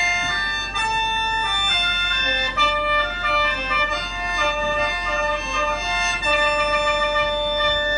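Khaen, the Lao bamboo free-reed mouth organ, playing a melody with several reed pipes sounding at once over held drone notes.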